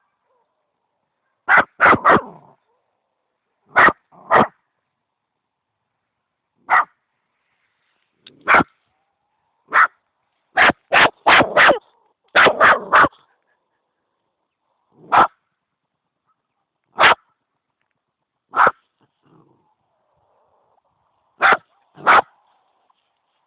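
A dog barking at a hedgehog: about twenty short, sharp barks, some single and some in quick runs of three or four, with pauses of a second or more between the groups.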